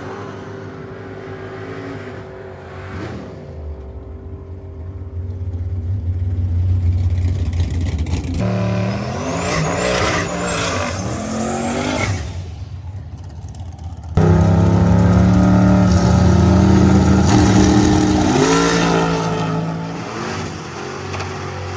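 Drag car's V8 engine running and revving, in several abruptly cut segments, with sudden changes in level about eight and fourteen seconds in.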